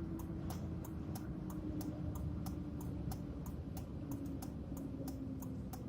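Turn signal ticking steadily, about three to four sharp clicks a second, inside the cab of a pickup truck, over the low hum of the idling engine.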